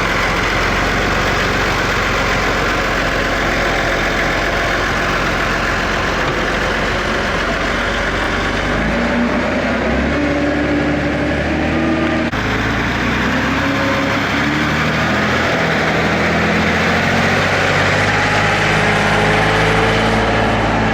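Eicher tractor's air-cooled diesel engine running steadily, its pitch shifting as engine speed changes, with an abrupt cut to another engine sound about twelve seconds in.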